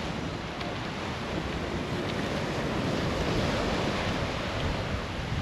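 Sea waves washing on the shore, the surf swelling a little midway, with wind on the microphone.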